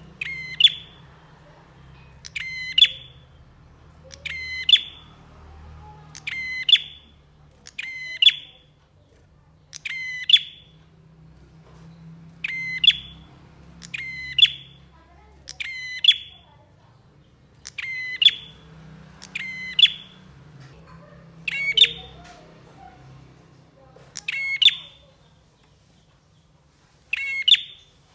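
Prinia (prenjak) singing a short, sharp call phrase over and over, roughly one every two seconds, with a brief pause near the end.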